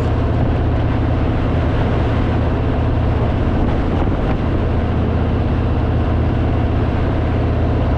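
Harley-Davidson Fat Boy's V-twin engine running steadily at highway cruising speed, under an even rush of wind and road noise.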